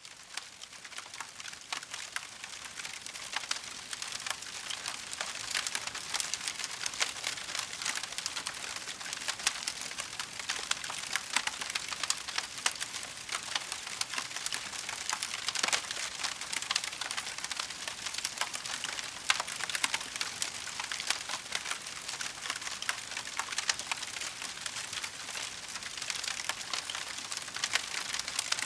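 Wood fire crackling, a dense run of small pops and snaps that fades in over the first few seconds and then holds steady.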